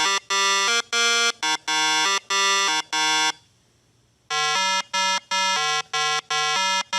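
A buzzy electronic tune of short, steady beeping notes, played as two phrases of about eight notes each with a pause of about a second between them.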